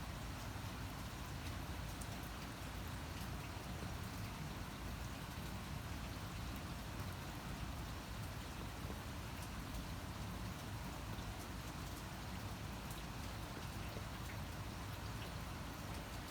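Steady rain falling: a dense, even hiss with scattered individual drops ticking sharply.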